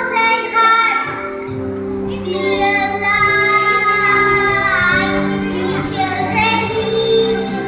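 A child singing a melody in long held notes, with musical accompaniment underneath.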